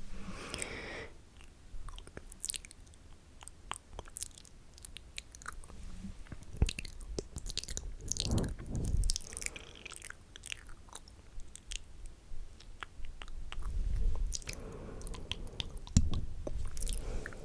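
Wet mouth sounds right against the microphone: scattered tongue and saliva clicks and smacks, with a couple of louder knocks, about six and a half seconds in and near the end.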